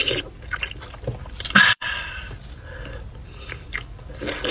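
Close-miked chewing and mouth sounds, with small wet clicks and three louder bites or smacks: one at the start, one about one and a half seconds in and one near the end.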